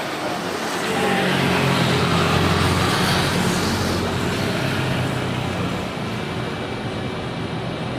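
Engine noise of a passing vehicle: a low hum and a rushing hiss that swell about a second in, are loudest around two to three seconds, then slowly fade.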